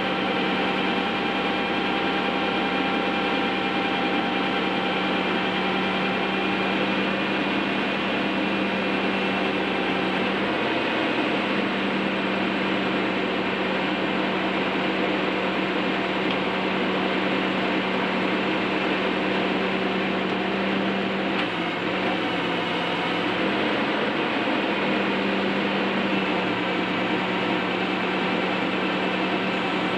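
Bucket truck running steadily with a constant mechanical hum, the hum's pitch dipping briefly about 11 seconds in and again around 21 to 24 seconds.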